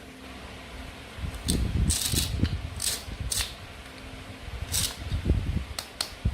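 Toy play food being handled: a run of sharp plastic clicks and crackles, some clustered together, over soft low bumps and knocks.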